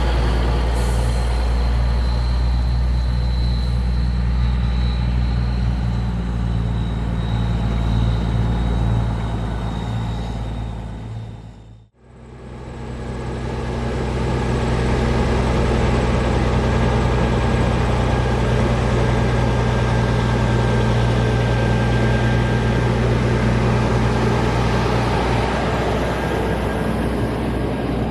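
Heavy diesel truck engine idling steadily with a deep, even hum. The sound fades out and back in about twelve seconds in, then the idling carries on.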